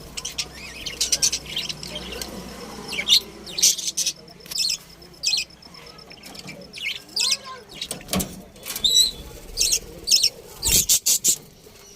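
Lovebirds chirping: many short, sharp, high-pitched chirps in quick irregular clusters.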